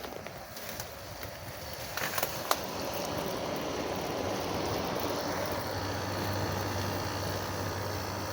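1980s Sharp 5,500 BTU window air conditioner running, heard from its outside end: a steady fan rush with the low hum of its running Matsushita compressor. It grows louder after a few sharp clicks about two seconds in.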